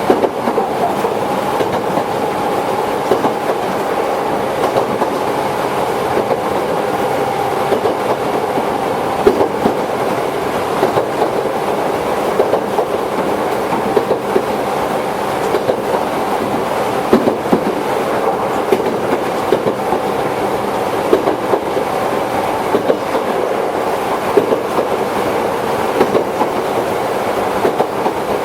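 Toyohashi Railway 1800 series electric train, ex-Tokyu stock, running steadily along the line, with a steady whine and irregular sharp clacks as the wheels cross rail joints.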